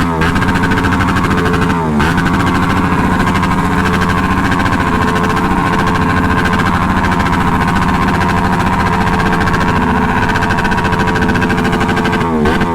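Motorcycle engine running steadily at close range, with a small change in its note about two seconds in.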